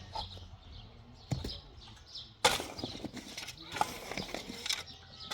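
Irregular knocks and clatter, the loudest a sharp knock about two and a half seconds in.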